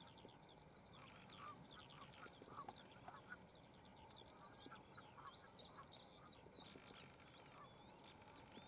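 Faint chorus of wild birds: many quick, high chirps from small birds, mixed with lower calls from waterfowl.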